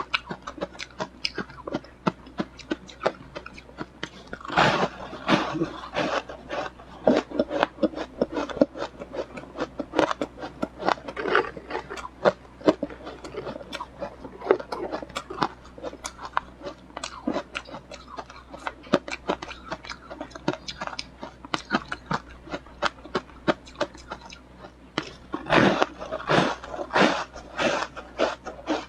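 A person biting and chewing ice: a steady run of sharp crunches and cracks, with louder, denser bouts of crunching about five seconds in and again near the end.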